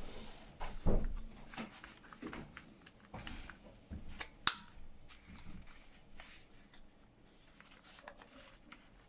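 Corners being cut off paper pages: a few scattered sharp snips and clicks among quiet paper handling, the loudest about four and a half seconds in.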